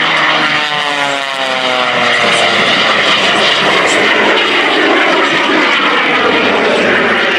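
Jet Waco biplane, a 1929 Taperwing Waco with a radial piston engine and an underslung jet engine, flying a fast pass. Its engine note drops steadily in pitch over the first few seconds as it goes by, then gives way to a loud, even roar.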